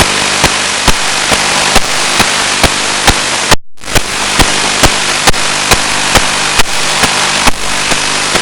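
Loud, steady static hiss with a low hum from an analog 1.3 GHz FPV video receiver's audio channel, broken by sharp regular clicks a little over twice a second. The sound cuts out completely for a moment about three and a half seconds in.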